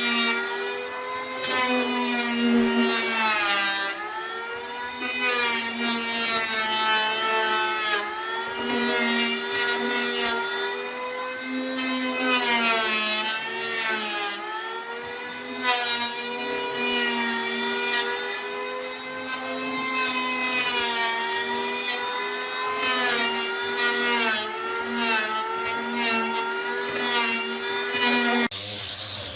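Handheld electric power tool working wood, its motor whining steadily with the pitch dipping and recovering as it is loaded and eased off. It stops or changes abruptly near the end.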